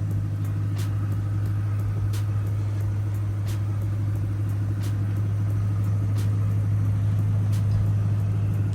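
Steady low drone of a 200-series Toyota Crown Majesta's V8 and straight-through exhaust, heard from inside the cabin while driving. Faint clicks come about every second and a half.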